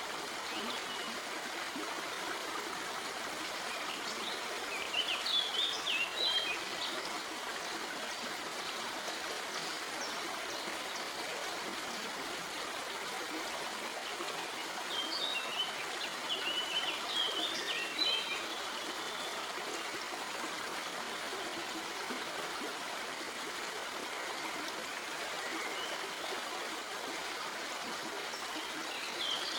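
Stream flowing and trickling over rocks, a steady rush of water. Birds chirp in two short flurries over it, about five seconds in and again around the middle.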